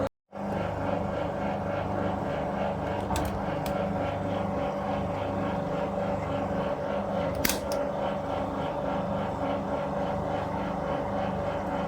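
1966 Bendix LA automatic washing machine running its wash, with a steady motor hum and a constant tone as the drum turns. There are a few sharp clicks, and the loudest is about seven seconds in.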